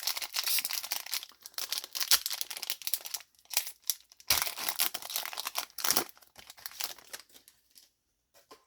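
Yu-Gi-Oh booster pack foil wrappers being handled, torn open and crinkled: a busy run of crackling and rustling that dies away near the end.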